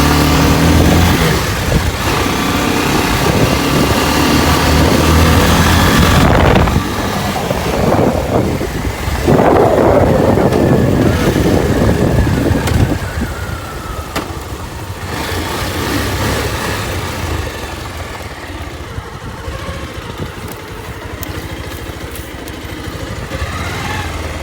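Motorcycle engine running on the road, louder through the first half with a surge about nine seconds in, then quieter.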